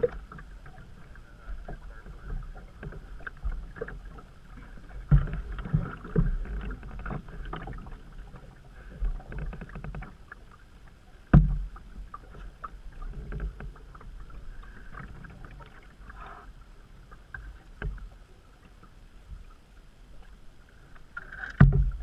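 A canoe being paddled down a creek, with water splashing and rushing steadily. Paddle knocks and bumps against the hull come now and then, the loudest about halfway through and just before the end.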